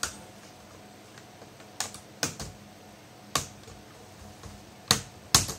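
Irregular sharp clicks and taps of small hard parts being handled during laptop disassembly, about six in all, the loudest two near the end.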